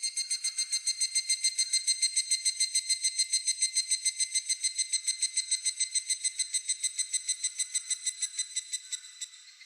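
Higurashi (evening cicada) calling: a fast, even train of ringing pulses that swells in, holds steady, and fades out near the end as another call starts.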